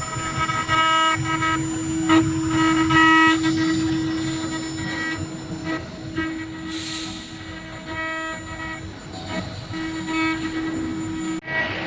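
CNC router spindle milling aluminum: a steady whine, with higher ringing tones that come and go as the bit cuts the metal. The sound briefly cuts out near the end.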